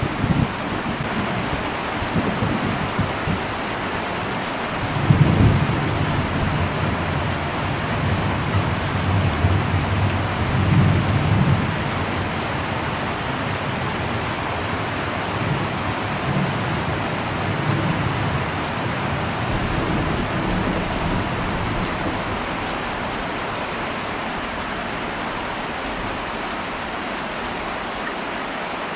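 Heavy rain falling steadily on an old metal roof, with thunder rumbling low: it swells about five seconds in and again around ten seconds, then dies away.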